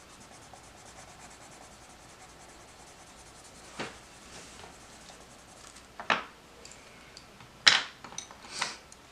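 Coloured pencil rubbing and scratching faintly on paper as it shades in, with a few short, louder rustles as the pencils and paper are handled.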